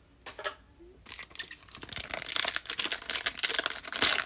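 Crinkling and tearing of a trading-card pack wrapper being torn open by hand: a dense crackle of small clicks that starts about a second in and grows busier.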